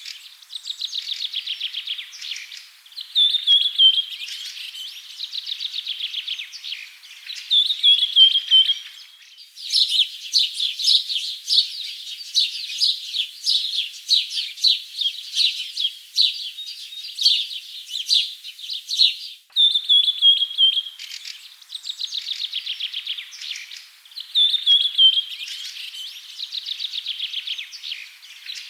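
Songbird singing a repeated phrase every few seconds: a short falling whistle running into a rapid trill. From about 9 s to 19 s, after a sudden cut, a denser stretch of quick, busy chirping takes over, then the whistle-and-trill phrase returns.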